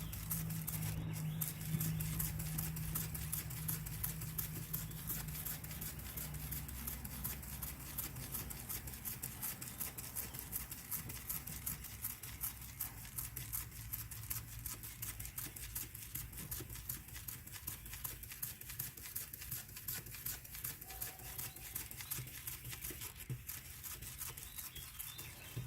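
3000-grit wet sandpaper on a hand pad rubbing up and down across a plastic headlight lens in a quick, even rhythm of short rasping strokes. A low hum in the background fades out about six seconds in.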